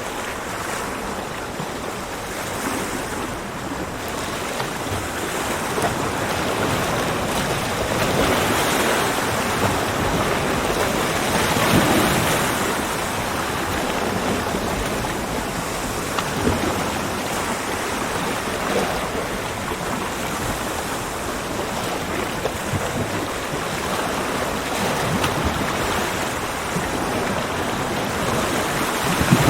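Ocean waves breaking and washing on a beach, a continuous rush that swells and eases, loudest about twelve seconds in.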